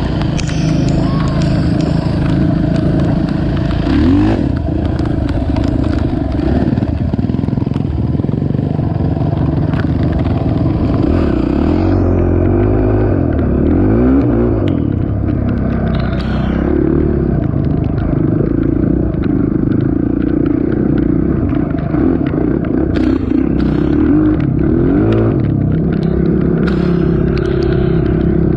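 Honda TRX450 ATV engine running on the trail, revving up and easing off several times, with a rise and fall in pitch about 4 seconds in, around 13 to 15 seconds, and again near 25 seconds.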